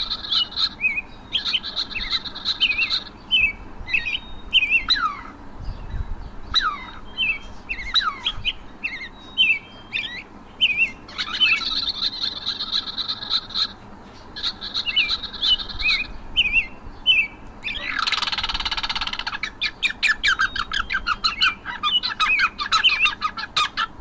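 Small birds calling: buzzy high trills a second or two long alternate with quick falling chirps, a harsh squawk comes about eighteen seconds in, and a fast run of chirps follows it.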